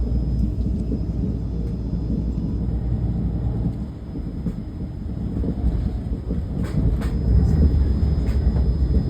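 Steady low rumble of a vehicle's engine and cabin noise, dipping briefly near the middle and swelling again, with a few faint clicks in the last few seconds.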